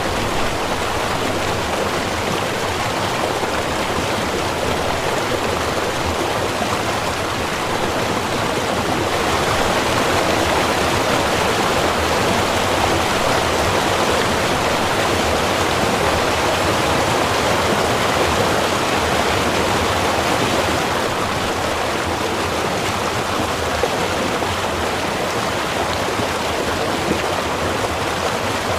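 Small river running: a steady rushing of flowing water that swells a little for about ten seconds in the middle.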